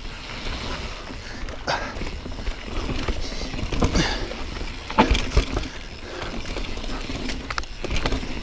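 Yeti SB4.5c mountain bike descending rough rocky, rooty singletrack: a steady low rumble from the tyres rolling over the trail, broken by sharp knocks and rattles as the bike strikes rocks and roots, the loudest about four and five seconds in.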